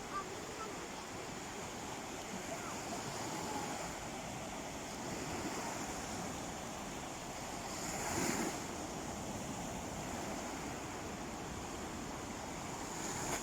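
Calm sea waves washing steadily onto the shore, with one louder wave breaking about eight seconds in.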